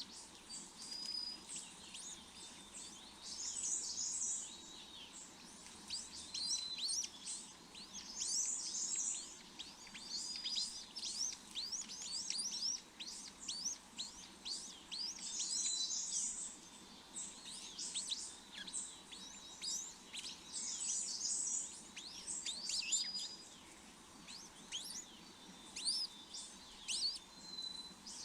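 Small birds chirping: rapid high-pitched chirps that come in dense clusters every couple of seconds, with a few short, thin whistled notes between them.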